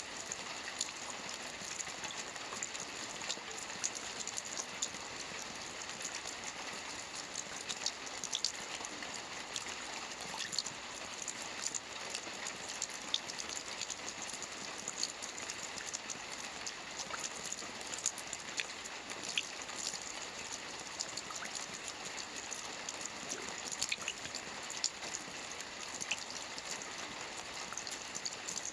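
Steady rain falling on a lake's surface: an even hiss made up of many small drop patters and ticks.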